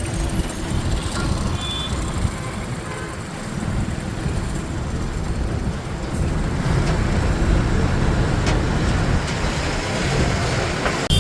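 Truck engine running with road noise while driving in traffic, and a short high beep about two seconds in.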